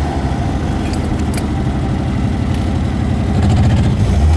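Car engine running steadily, getting louder about three seconds in.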